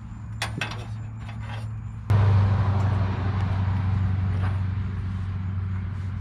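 An engine running with a steady low hum, then suddenly much louder about two seconds in, with a rushing noise added that slowly eases off.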